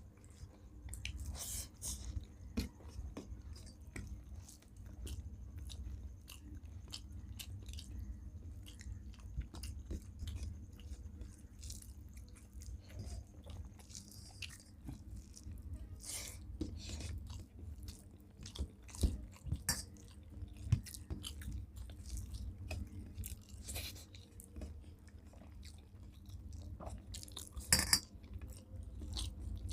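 People chewing mouthfuls of rice and shukto close to the microphone: moist chewing with scattered clicks and lip smacks, a few louder ones near the middle and near the end, over a steady low hum.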